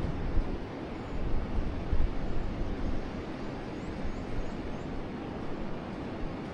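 Forest river flowing steadily. Wind gusts on the microphone add a low rumble over the first few seconds and then die down, and a few faint, short high bird chirps come about four seconds in.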